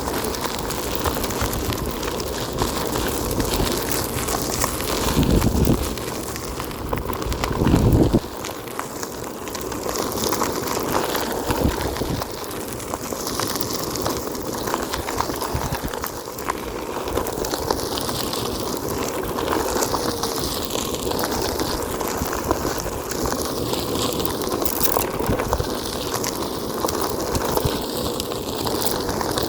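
Onewheel electric board rolling along a forest trail, its single tyre giving a steady crackling road noise. Two loud low thumps come about five and eight seconds in.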